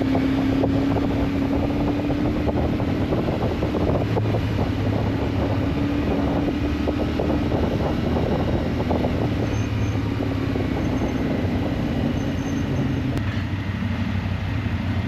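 Motorcycle engine running steadily as the bike rides along, with wind buffeting the microphone.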